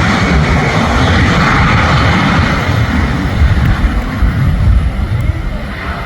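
Airbus A220-300's Pratt & Whitney PW1500G geared turbofan engines running at takeoff power, a loud steady jet rumble and roar that begins to fade near the end.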